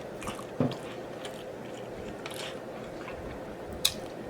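Close-miked chewing and smacking of a person eating, with scattered small wet mouth clicks. A soft knock comes about half a second in and a sharper click near the end.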